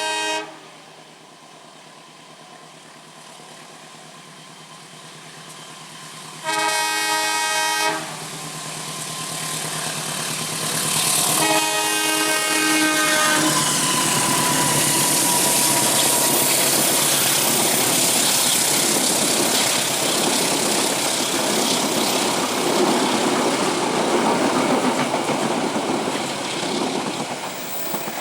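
Train horn blowing three times: the tail of one blast right at the start, then two more blasts about five seconds apart, each a second or two long. Then a train passes close by, a loud, steady noise of wheels clacking on the rails for about fifteen seconds that eases near the end.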